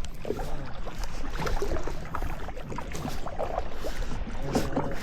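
Kayak paddling on a lake: water splashing and dripping in small irregular bursts as the paddle dips, over a steady low rumble.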